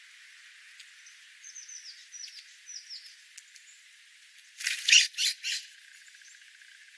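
Wild bird calling: a string of short, down-slurred whistled chirps, then about four and a half seconds in three loud, harsh squawks in quick succession.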